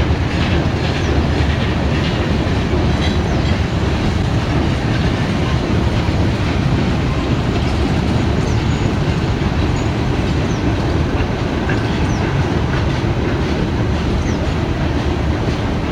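CSX freight train's cars rolling past on the track as the train departs, a steady heavy rumble with clickety-clack of the wheels over rail joints.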